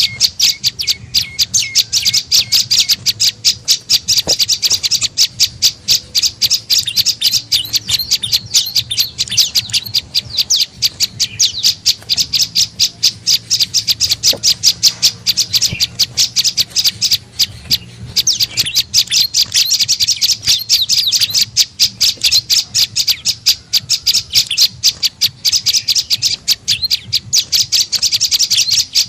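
Prenjak lumut (a small Indonesian warbler) calling: a rapid, unbroken series of sharp high chirps, about five a second, as used for luring the bird.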